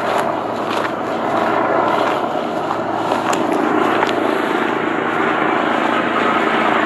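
Steady engine drone, with a few faint clicks.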